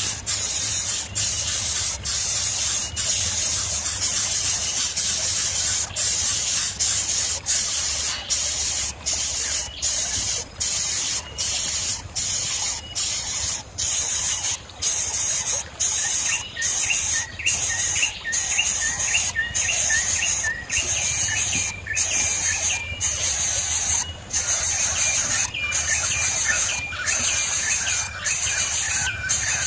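Loud hissing, broken by short pauses about once or twice a second. In the second half a bird gives rapid series of short, high chirps over it.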